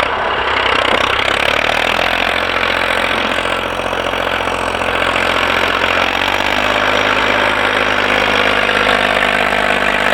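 IMT 539 tractor's three-cylinder diesel engine running steadily, its note shifting slightly about six and a half seconds in.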